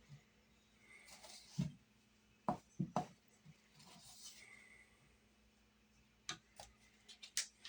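Scattered light knocks and clicks of kitchen utensils and a bowl, with a few brief soft rustles, while water is worked into flour for dumpling dough; the clicks come closer together near the end.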